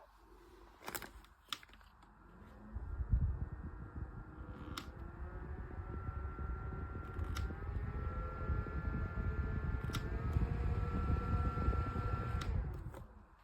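Small battery-powered desk fan clicked on, running with a steady rush of air and a motor tone. The pitch steps up at further button clicks as the speed is raised, and the fan cuts off after a last click near the end.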